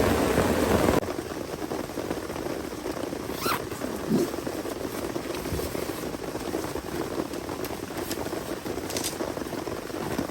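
Heavy rain pouring, then after about a second a sudden drop to a quieter, even hiss with scattered light ticks and a brief falling tone about four seconds in.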